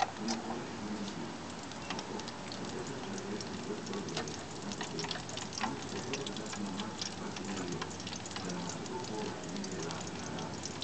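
Chopped green onions sizzling in olive oil in a frying pan: a steady hiss dotted with many small crackles.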